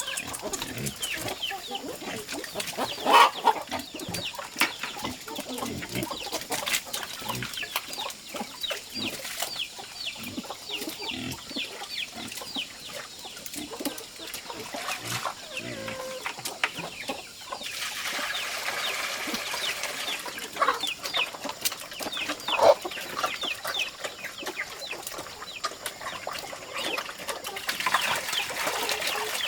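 A flock of chickens clucking and chirping, many birds calling over one another, with a louder call about three seconds in and another past twenty seconds.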